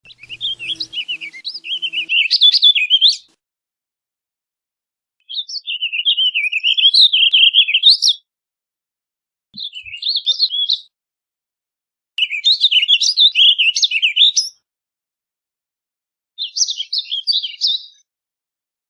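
Warbling vireo singing its rambling warbled song: five fast, run-on phrases of one to three seconds each, separated by short pauses.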